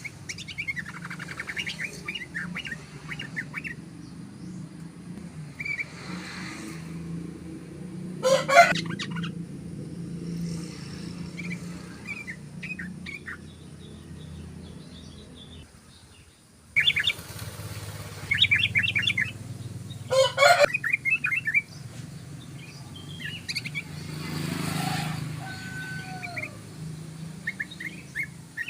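Yellow-vented bulbul singing in quick bursts of rapid chattering notes, phrase after phrase, over a steady low hum. Two louder, harsher bursts stand out, about eight and twenty seconds in.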